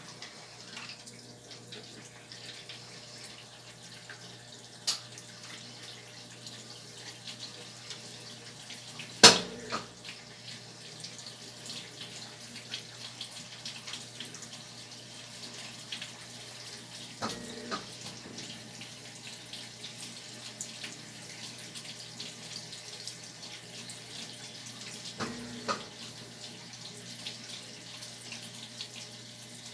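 Brastemp Tira Manchas Pro 12 kg washing machine filling with water at the start of its wash cycle: a steady hiss of water running into the drum over a low hum, with a few sharp clicks and knocks, the loudest about nine seconds in.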